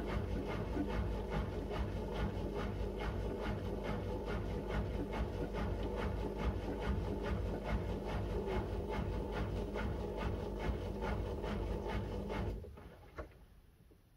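Miele W1 front-loading washing machine turning its drum during the main wash: a steady motor hum with the laundry tumbling in a regular rhythm of about two to three swishes a second. About twelve and a half seconds in, the drum stops, and a single click follows a moment later.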